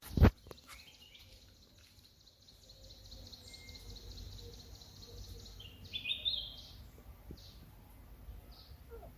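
A sharp knock right at the start, then wild birds singing: a fast trill of evenly repeated high notes for about five seconds, followed by a few louder chirps.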